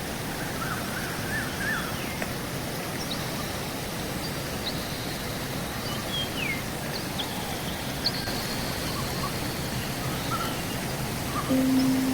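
Steady rush of a river, with birds chirping and whistling every second or so. Music comes in near the end.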